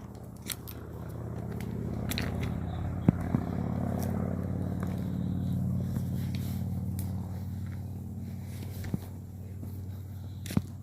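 Footsteps crunching through dry leaf litter, with sharp snaps of twigs underfoot, over a steady low hum.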